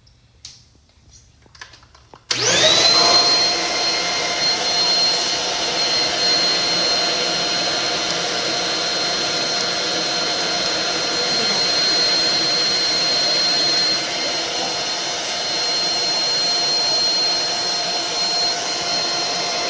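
Stick vacuum cleaner switched on about two seconds in, its motor spinning up quickly to a steady high whine and running on. A few light clicks come before it starts.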